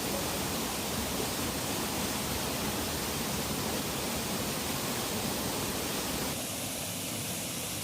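Steady rushing of river water. It becomes a little quieter and thinner about six seconds in.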